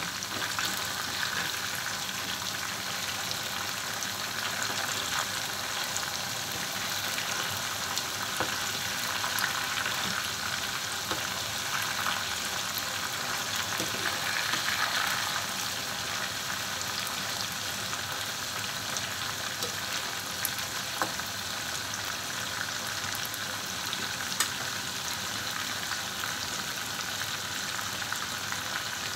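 Marinated chicken pieces frying in hot oil in a nonstick pan: a steady sizzle with fine crackling, while a metal spoon turns the pieces in the oil. A couple of sharper clicks stand out later on.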